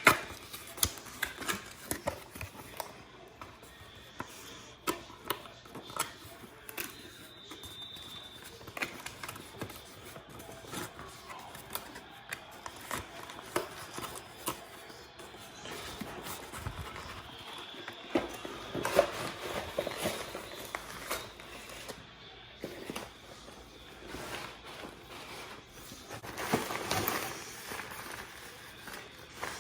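Handling noise from unpacking a product: scattered clicks and knocks of packaging and parts being handled, with longer bursts of rustling about 19 seconds in and again near the end.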